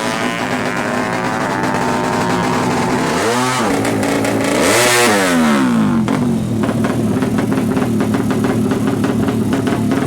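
Motorcycle engine through an aftermarket racing exhaust. The engine winds down, is blipped twice, then settles into a steady idle with an even, rapid beat.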